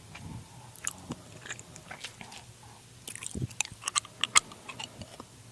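Close-miked ASMR trigger sounds: scattered soft crackles and clicks, sparse at first and denser from about three seconds in.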